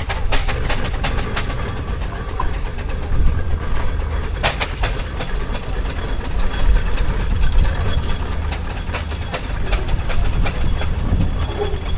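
Steam traction engines running in a show arena: a steady low rumble with irregular sharp chuffs and clanks.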